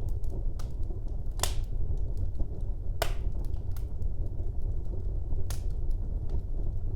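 Wood fire burning in a fireplace: a steady low rumble of the flames with scattered crackles and sharp pops, the loudest pops about a second and a half in and at three seconds.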